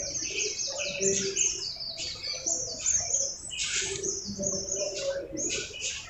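Birds chirping continuously, a rapid string of short, high notes, each falling in pitch.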